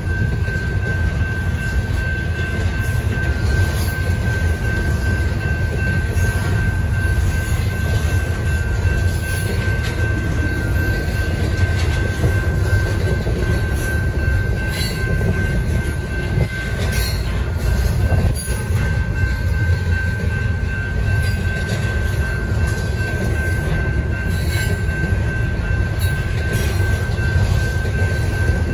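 Double-stack intermodal freight cars rolling past at a grade crossing: a steady heavy rumble of steel wheels on rail, with a constant high tone and a few brief clanks about halfway through.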